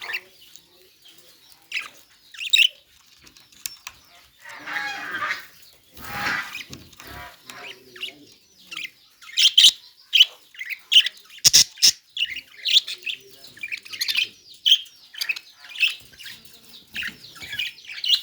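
Budgerigars chirping and squawking, with two longer harsh squawks about five and six seconds in, then a busy run of quick high chirps, several a second, through the second half.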